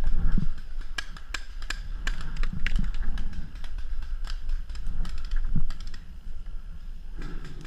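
Irregular sharp clicks and pops, now and then several close together, over a steady low rumble.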